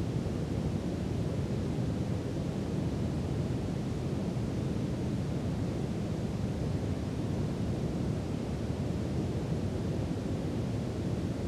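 Steady brown noise: an even, deep rumbling hiss, heaviest in the bass and soft in the treble, with no change or events.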